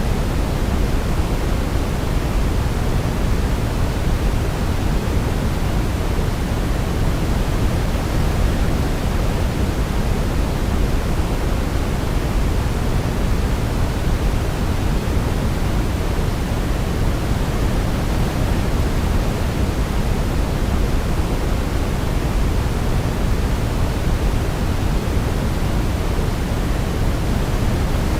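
Steady white noise for baby sleep: an even, unchanging hiss, heaviest in the low end, with no melody heard.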